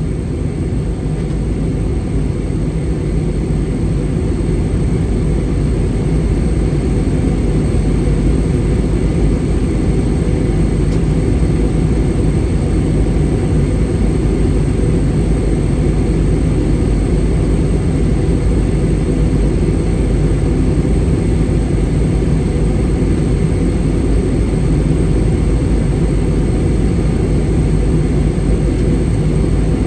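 Steady cabin noise inside an Airbus A320 airliner on its descent: a low rumble of airflow and engines, growing slightly louder over the first few seconds.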